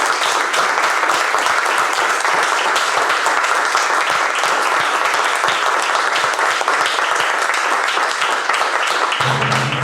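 Audience applauding steadily. Just before the end, a low wind instrument starts playing sustained notes under the clapping.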